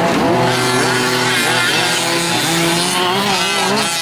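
Several gas-powered 1/5-scale RC off-road trucks racing, their small two-stroke engines revving up and down in overlapping rising and falling pitches.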